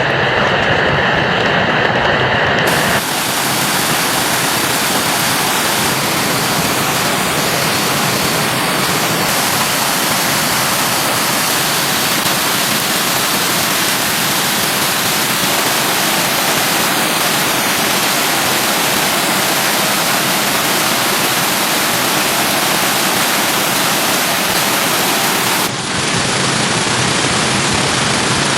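Flowing stream water rushing in a steady, loud hiss, with abrupt shifts in its tone about three seconds in and again near the end.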